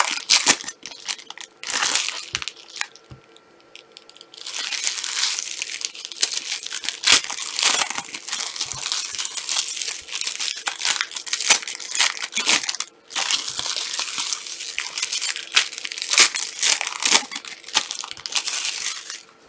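Plastic wrappers of trading card packs being torn open and crumpled, a run of irregular crinkling and crackling with a short pause about three seconds in and another about two-thirds of the way through.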